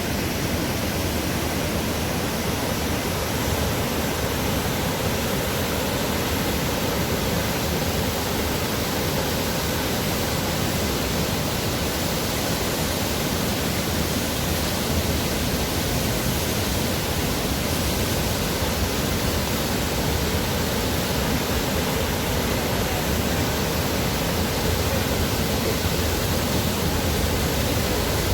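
Dubai Water Canal's artificial waterfall: water pouring steadily into the canal with an even, unbroken rush.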